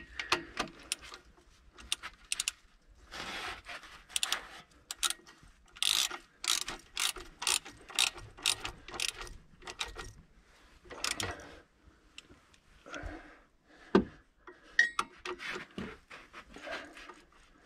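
Ratchet wrench clicking in bursts of short back-and-forth strokes, about two a second at times, as bolts are turned, with scattered clinks of tools on metal.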